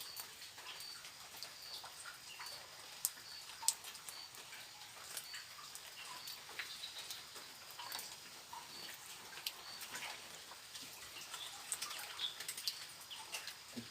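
Wild animal sounds at a forest riverside: a short high chirp repeating about every three quarters of a second over a steady high hiss of insects, with scattered faint clicks and other small calls.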